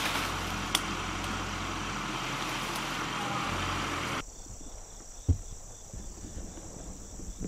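A steady rushing noise cuts off abruptly about four seconds in, leaving a steady high-pitched chorus of crickets, with one dull thump a second later.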